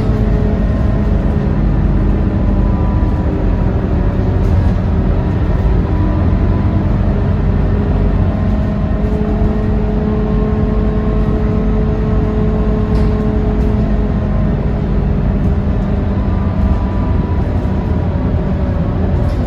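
Scania K230UB single-deck bus under way: its diesel engine runs steadily over road rumble, with a steady whine that holds one pitch for a few seconds in the middle.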